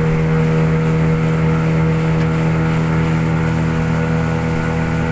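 Motorboat engine running steadily under way, a constant drone at an even pitch.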